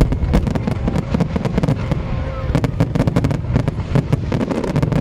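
Fireworks going off in rapid, irregular succession: a dense crackle of sharp bangs over a steady low rumble.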